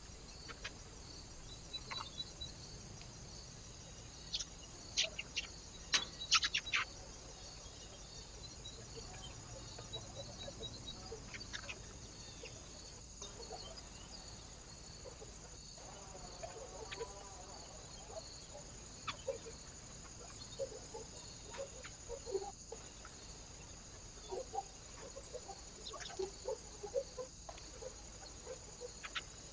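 Birds at a feeder: scattered short, low calls that come thicker in the second half, plus a cluster of sharp clicks and taps a few seconds in, over a steady high-pitched hiss with a faint regular pulse.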